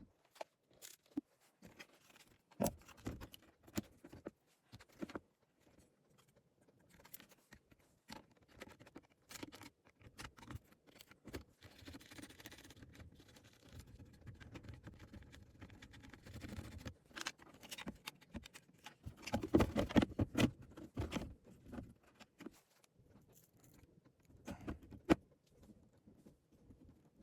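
Irregular small clicks and taps of tools and parts being handled on a workbench, with a denser bout of knocking and rattling about twenty seconds in.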